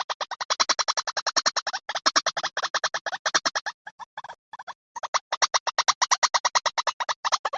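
White-breasted waterhen (ruak-ruak) calls from a bird-catching lure recording: rapid, harsh repeated notes, about nine a second, in long runs that thin out and pause briefly about four seconds in before picking up again.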